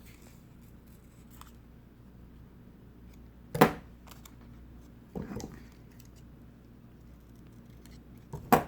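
Scissors cutting construction paper into a fringe: three separate snips, one a little over three seconds in, a softer one around five seconds, and a sharp one near the end.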